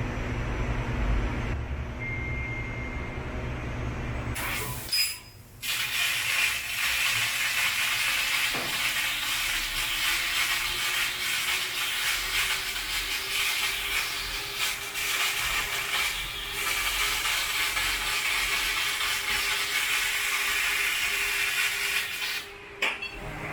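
HSG 12 kW fiber laser cutting machine cutting sheet metal: a steady hiss of assist gas and cut spray sets in after a short pause about five seconds in and stops a second before the end. Before the cut, the machine gives a lower, steady rumble.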